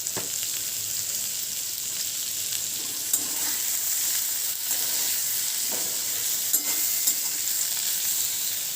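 Spiced masala of ginger paste, tomato and carrot sizzling in hot oil in a kadai as it is stirred and fried down (kosha), with a few brief clicks of the stirring utensil against the pan.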